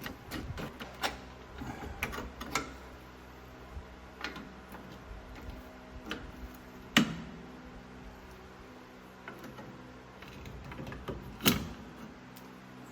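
Scattered metal clicks and taps of a brake tool working a drum brake's star wheel adjuster, with two sharper clanks about seven seconds in and near the end, over a faint steady hum.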